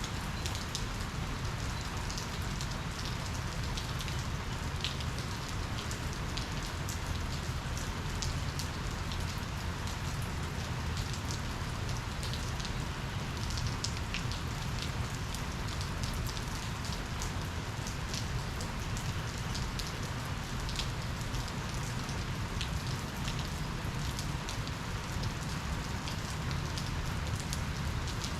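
Steady rain falling during a thunderstorm, with many individual drops ticking sharply against nearby surfaces.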